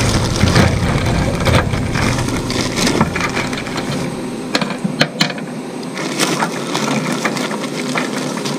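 Irregular clicks and clanks of metal parts and bolts being handled, over a low rumble that drops away about halfway through.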